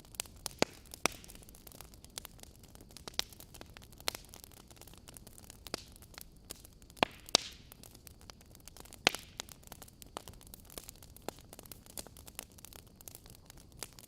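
Wood fire crackling in a fireplace: irregular sharp pops and snaps over a low hiss, with the loudest pops about a second in, around seven seconds and around nine seconds.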